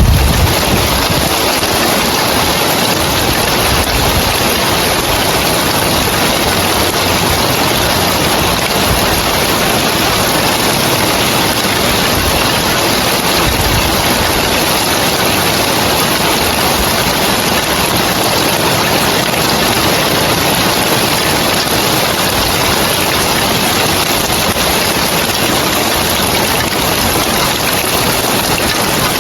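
Heavy rain falling steadily on roof tiles, a dense, even hiss.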